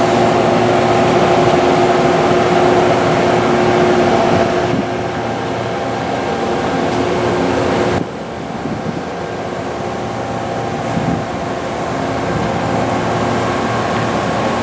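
Train at track side: a steady mechanical drone and hum with a noisy rumble under it. The sound drops a little about five seconds in and changes abruptly about eight seconds in.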